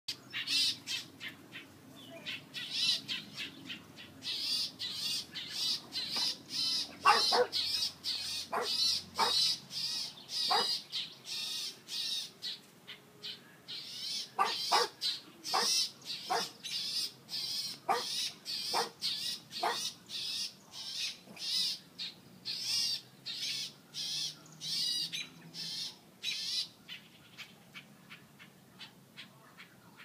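A bird calling over and over in short, sharp chirps, about two a second, with a few harsher calls mixed in; the calls thin out near the end.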